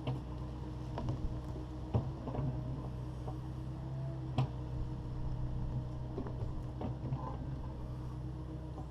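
Takeuchi TB260 excavator's diesel engine running steadily, with a few sharp knocks and clunks scattered through it.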